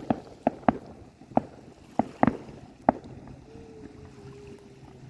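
Fireworks going off: a string of sharp pops and bangs, about eight in the first three seconds, then a faint steady tone that sags a little in pitch near the end.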